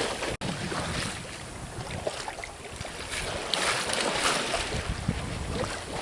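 Wind buffeting the microphone and water rushing and splashing along the hull of a sailboat under way at sea, rising and falling, with a split-second gap about half a second in.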